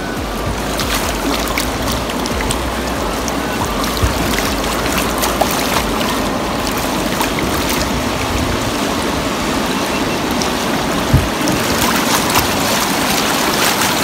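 River water rushing over a shallow rocky riffle and splashing around an inflatable raft: a steady rushing noise with small scattered splashes, and one sharp thump about eleven seconds in.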